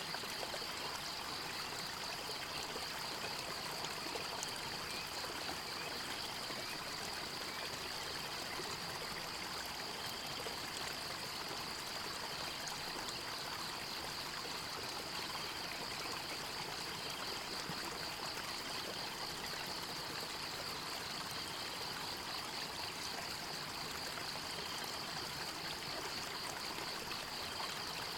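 Forest stream rushing and trickling steadily, with a continuous high-pitched trill pulsing fast and evenly over it.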